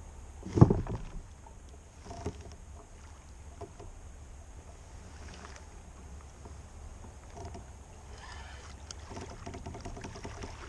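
Knocking and handling sounds on a fishing kayak: one sharp thump about half a second in, the loudest sound, then a lighter knock around two seconds in and a few faint clicks and rattles, over a low steady rumble.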